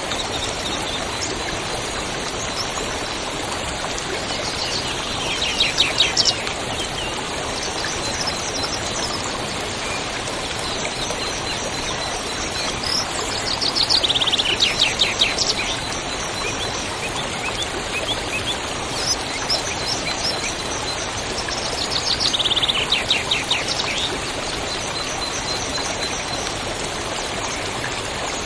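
Steady rush of a flowing river, with a small songbird singing a fast trill of falling notes three times, about eight seconds apart.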